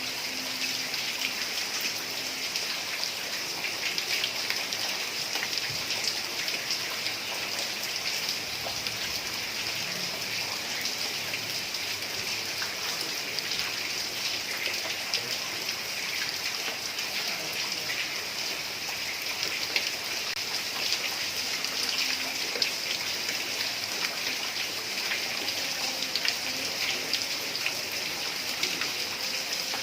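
Heavy rain falling steadily on a tile roof: a dense even hiss with many small individual drop taps and no thunder.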